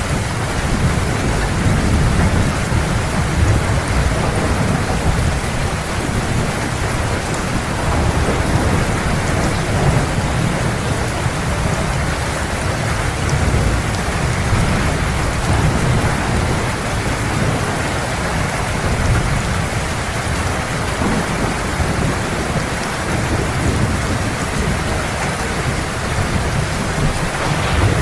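Heavy, steady rain with a continuous low rumble of thunder underneath, no single sharp crack standing out.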